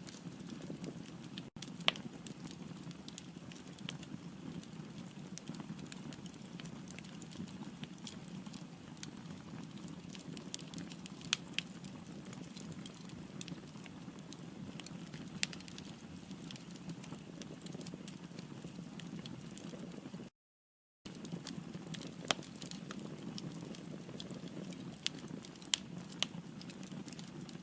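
Firewood burning in a fireplace: a steady low rush of flame with irregular sharp crackles and pops. The sound cuts out completely for under a second about twenty seconds in.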